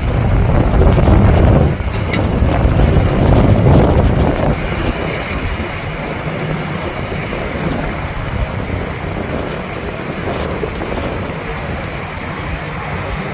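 Wind buffeting the microphone over a dive boat's engine running and the wash of water. The wind rumble is heaviest in the first four or five seconds, then eases to a steadier level.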